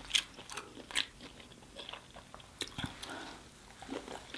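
Close-up chewing of sauce-covered lobster tail meat, with scattered short, sharp, wet mouth clicks.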